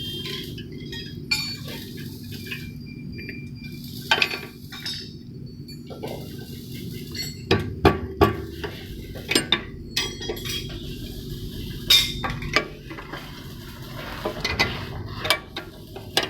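Metal tools and parts clinking and knocking irregularly, several sharp clanks among lighter taps, over a steady low hum.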